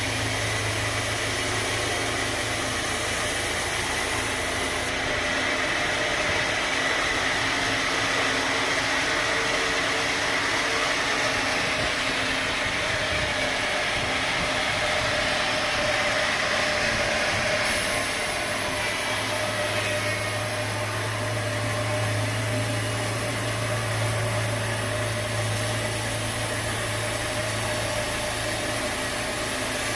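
Sawmill machinery running steadily, a continuous mechanical drone with a low hum that grows stronger about two-thirds of the way through.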